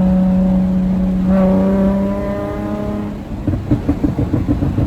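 Nissan 350Z's 3.5-litre V6 held at high revs through a titanium Agency Power straight-through exhaust, the pitch creeping slightly up. After about three seconds the revs drop and the exhaust crackles and pops in rapid, uneven bursts on the overrun.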